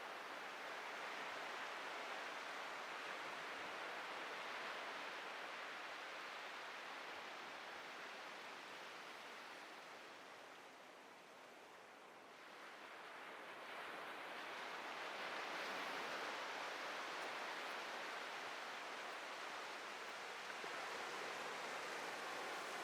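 Atlantic ocean surf breaking and washing on a beach: a steady hiss that eases off about halfway through, then swells again as the next wave comes in.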